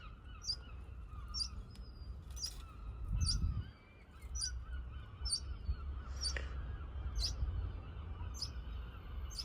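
Small birds chirping: short, high chirps repeated about one or two a second, over a steady low rumble that swells briefly a little after three seconds in.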